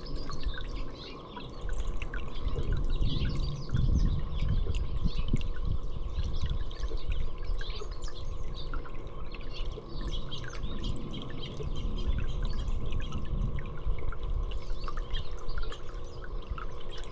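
Small songbirds chirping, many short high calls overlapping throughout, over a constant low rumble and trickling, dripping water.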